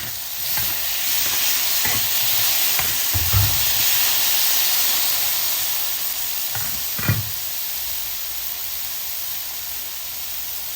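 Food sizzling loudly as it is stir-fried in hot oil in a wok, with two low knocks about three and seven seconds in.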